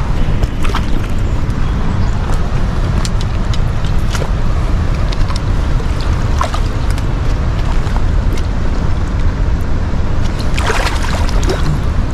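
Steady rushing noise of fast-flowing river water, with scattered light clicks and knocks.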